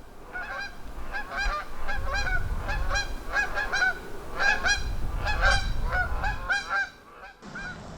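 A flock of geese honking, many short calls overlapping in quick succession, falling away near the end.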